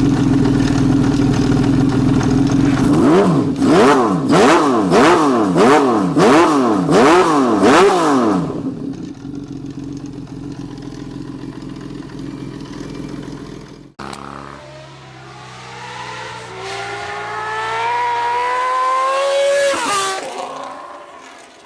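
Honda CBX 1050 inline-six engine idling, then blipped hard about twice a second for some five seconds before settling back to idle. After a sudden break about fourteen seconds in, a CBX accelerates with a steadily rising pitch that peaks near the end and then drops away.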